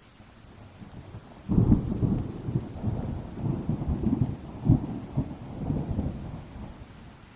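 Thunder: a sudden deep crack about one and a half seconds in, then a rolling rumble in repeated swells that dies away near the end. Steady rain hisses underneath.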